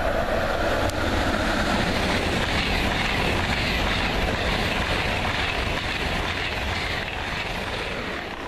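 Deutsche Bahn ICE high-speed train passing at speed: a loud, steady rush of wheels on rail and air along the train. It eases off near the end as the last cars go by.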